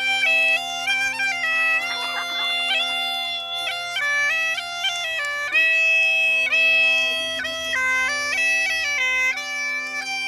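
Bagpipe playing a melody over steady drones, the tune stepping between held notes with quick ornamental grace notes between them.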